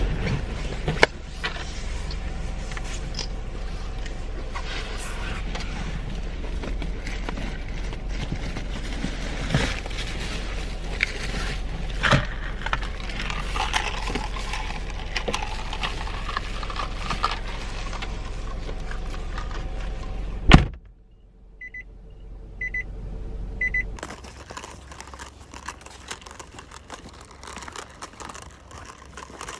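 Rustling, clicking and handling of bags and keys inside a car with a low steady hum, then a car door slams shut hard, followed by three short high beeps. After that the hum stops and quieter rustling and crunching go on.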